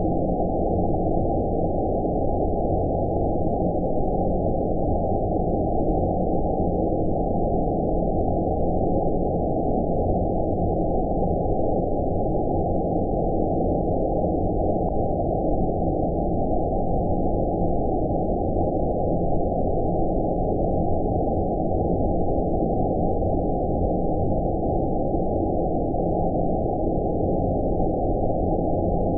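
Steady, deep rumbling 'outer space' sleep noise: a synthesized noise track with no high hiss, holding one even level throughout.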